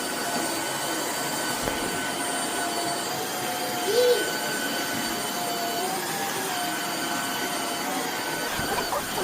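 Steady whirring of a motor or fan with a constant high whine over it, running evenly throughout.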